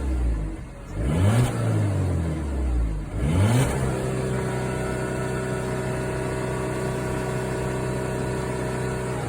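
Car engine being revved while stationary: a quick blip of the throttle about a second in, then a second rev about three seconds in that is held at a steady raised speed for about five seconds.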